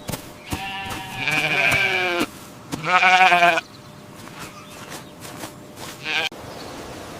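Two long, quavering bleats from a sheep or goat, the second shorter and louder.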